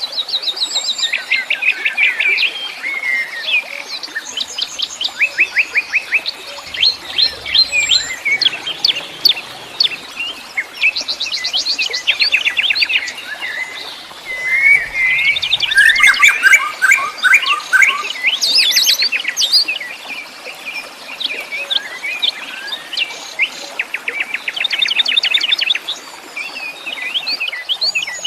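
Several wild songbirds chirping and singing at once, in fast trills and rapid runs of repeated notes that overlap one another throughout.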